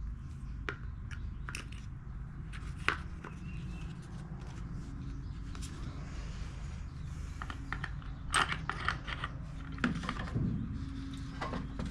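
Scattered light clicks and clinks of small metal mower parts and hand tools being handled during carburetor reassembly, with a quicker run of clicks about eight seconds in, over a steady low background hum.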